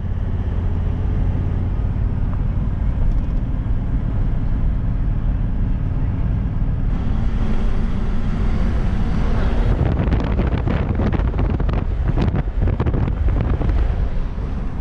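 A four-wheel drive driving, a steady low rumble of engine and road noise with wind buffeting the microphone. From about ten seconds in comes a dense run of short clattering and crunching strikes.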